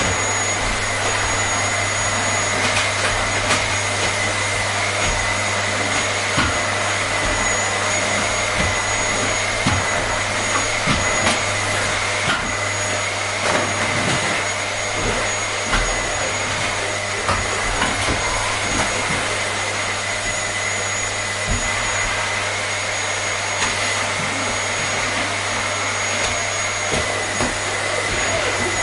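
Vacuum cleaner running steadily: an even rushing of air with a constant high-pitched whine, and a few small knocks here and there.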